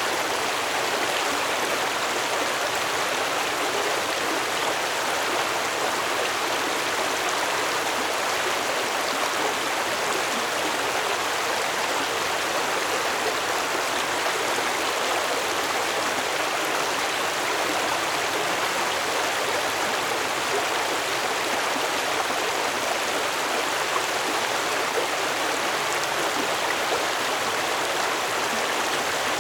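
Stream water flowing steadily over rocks, a constant rushing and babbling.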